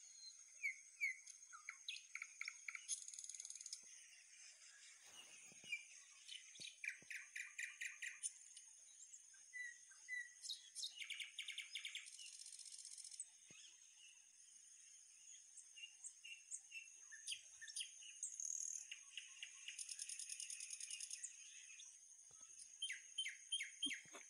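Several birds chirping and calling in quick series of short repeated notes, over a steady high-pitched whine in the background.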